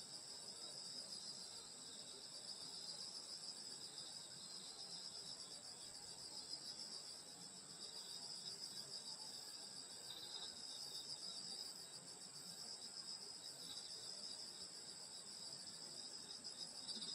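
Chorus of crickets and other grass insects, a steady high-pitched trilling with no pauses.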